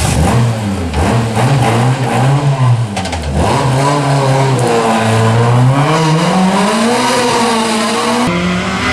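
Small Fiat rally car's engine revving hard, its pitch climbing and then dropping sharply several times as the driver shifts or lifts. The sound changes abruptly near the end.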